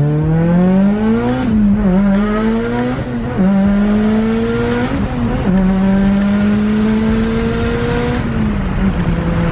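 Car engine, a 2.3-litre, accelerating hard as heard from inside the cabin: the pitch climbs, dips briefly at three quick gear changes, then holds nearly steady and drops away as the throttle is lifted near the end.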